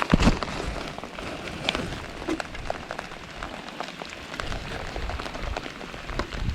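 Steady rain falling, with many sharp taps of individual drops landing close by and a brief knock right at the start.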